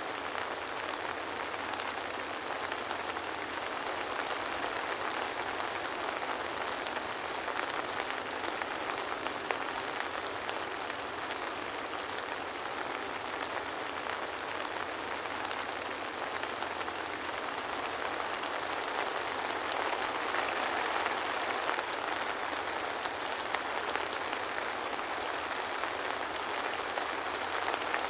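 Steady soft rain falling, with fine pattering drops and no thunder; it swells slightly a little past the middle.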